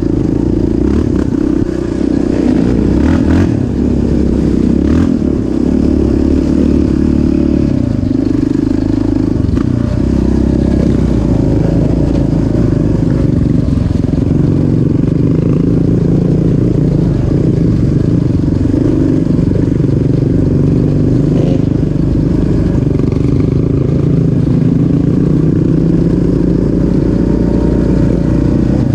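Off-road vehicle engine running continuously under way at the track, its pitch shifting in steps now and then as the revs change.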